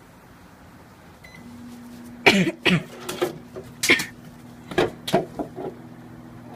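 A microwave oven's keypad beeps once, then the oven runs with a steady hum. From about two seconds in, several short, sharp sounds break over the hum.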